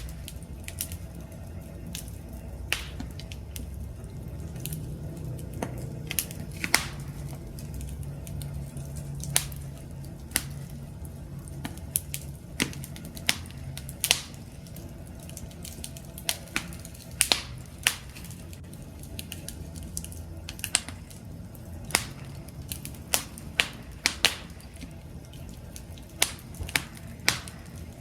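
Wood campfire crackling, with irregular sharp pops and snaps, some much louder than others, over a low steady rush of the flames.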